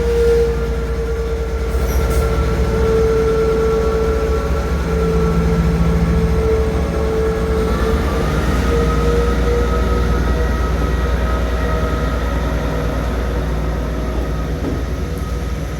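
Class 158 diesel multiple unit pulling away with a loud, steady howl, a high tone that sags slightly in pitch and then holds, over a low engine rumble. The uploader finds the howl does not sound good.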